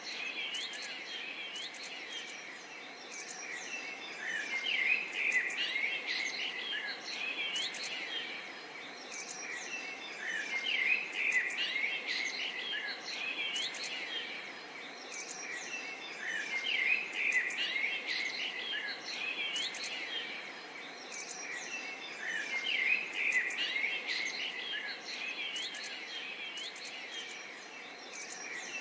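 A chorus of many small birds chirping and singing at once, busy overlapping high notes and short trills, swelling louder and easing off in waves about every six seconds.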